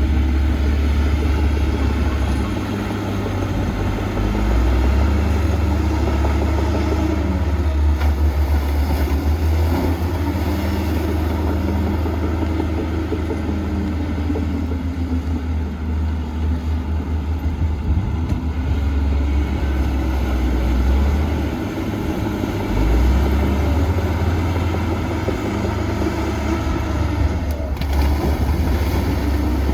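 Heavy diesel engines of earthmoving machinery working under load, the engine note rising and falling every few seconds.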